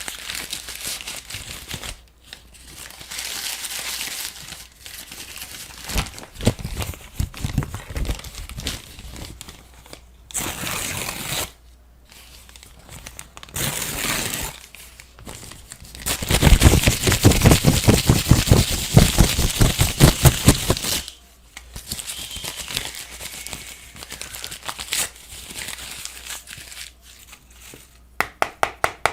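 A string of separate object sound effects, mostly crinkling, crumpling and tearing noises, broken by short gaps. The loudest is a dense run of rapid crackling clicks lasting about four seconds past the middle, and a few evenly spaced ticks come near the end.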